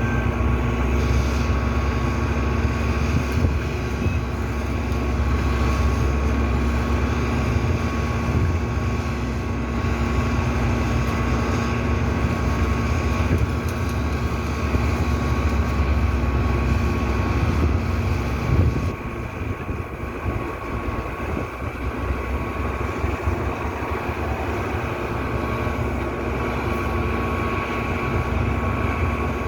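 Heavy truck's diesel engine running steadily with a deep rumble and a steady hum; the rumble eases about two-thirds of the way through.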